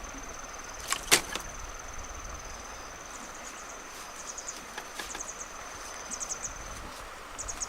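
An insect trilling steadily at a high pitch, with bursts of quicker pulsing in the second half. A single sharp knock sounds about a second in.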